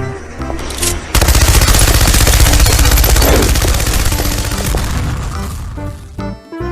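Rapid machine-gun fire, a sound effect laid over the video, starting suddenly about a second in and running for about four seconds before fading out. Light background music plays before and after.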